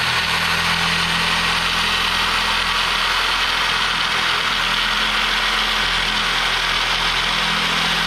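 Loud, steady machine noise: a constant hiss over a low, even hum, the sound of a motor running.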